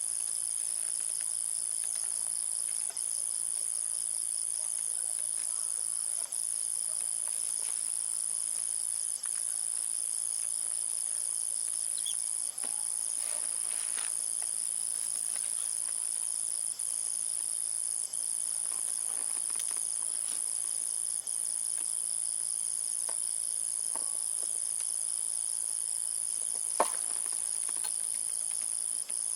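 Insects trilling in a steady, high-pitched chorus with brief gaps every few seconds. A single sharp click about 27 seconds in.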